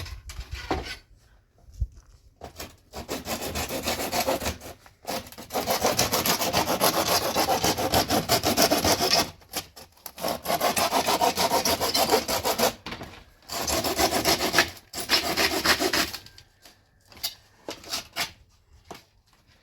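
Rough, steady scraping like sawing or rasping, in several runs of a few seconds each with short breaks between them.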